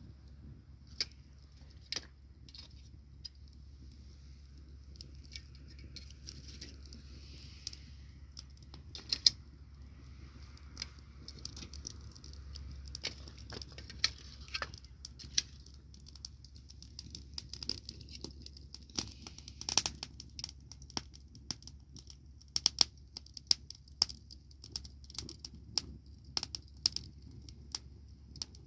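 Wood fire crackling: irregular sharp pops and snaps, a few much louder than the rest.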